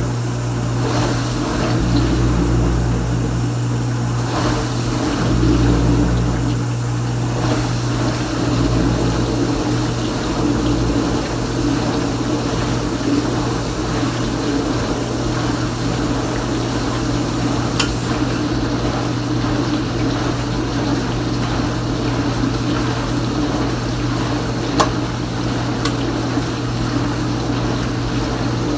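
Kenmore Ultra Wash 3 dishwasher running its rinse: the circulation pump hums steadily while water sprays inside the tub. An extra low rumble comes and goes in the first several seconds, and a single sharp click sounds near the end.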